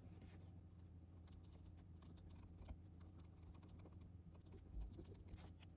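Near silence: faint room hum with light scratching and a scatter of small ticks.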